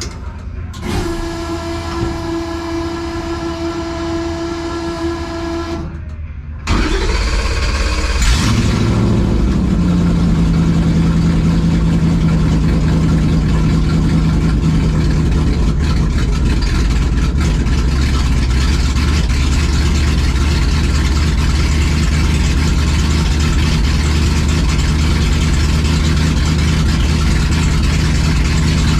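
A held musical tone for the first six seconds, then the drag car's engine starts abruptly about seven seconds in, revs briefly and settles into steady running for the rest.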